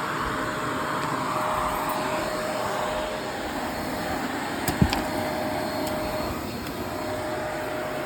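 Vacuum cleaner running steadily over carpet, with a thin steady whine under the suction noise and a single click about five seconds in.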